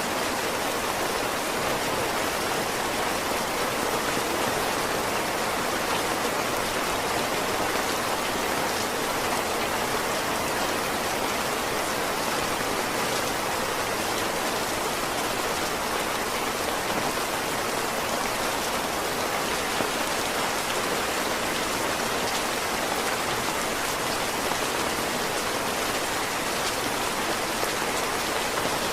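Steady heavy rain: a dense, even hiss of rain falling on surfaces.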